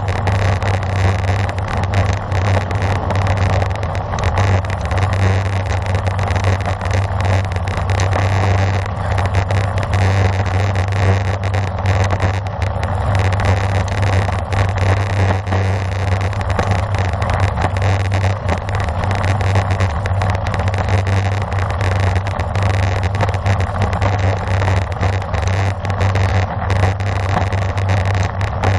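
Steady rush of wind and road noise from a road bike being ridden at speed, with a continuous low rumble of wind buffeting the microphone.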